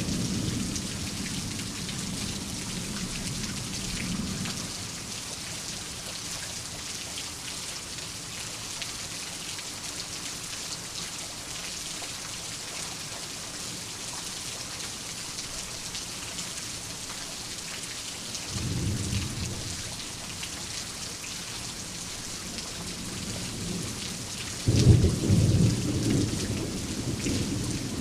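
Steady rain falling, with thunder: a rumble dying away in the first few seconds, a short rumble about two-thirds of the way in, and a louder thunderclap near the end that rolls on as it fades.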